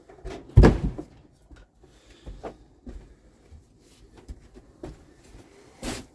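Scrapes and knocks of old bedding being scooped off the wooden floor of a chicken coop, with a loud knock about half a second in and another near the end.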